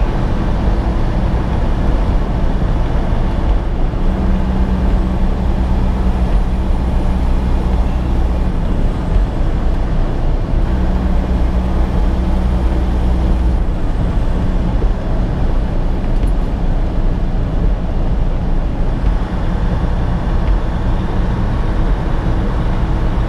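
Semi truck driving at highway speed: steady diesel engine drone and tyre noise on a wet road. A low hum swells twice, about four seconds in and again near the middle.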